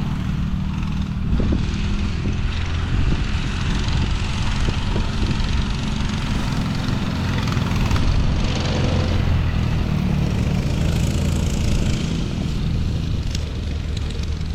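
Off-road vehicle engine running steadily with a low hum, under a constant hiss.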